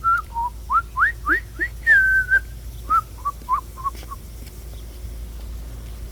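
A person whistling: a run of short rising whistles, a held note about two seconds in, then a few short lower notes that stop about four seconds in.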